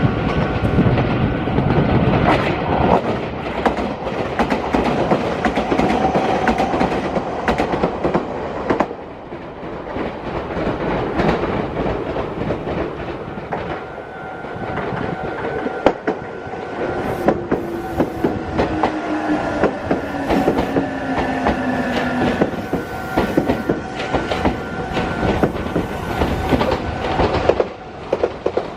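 Meitetsu electric train running through the junction, its wheels clattering over rail joints and points in rapid clicks, with a steady motor whine. About two thirds of the way in, a whine slowly falls in pitch.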